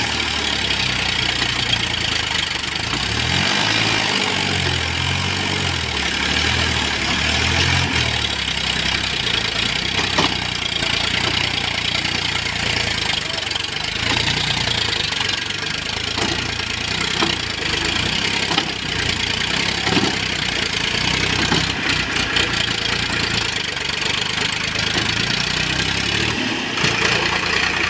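Diesel engines of farm tractors and a backhoe loader running, their low pitch shifting for a few seconds early on, then running steadily.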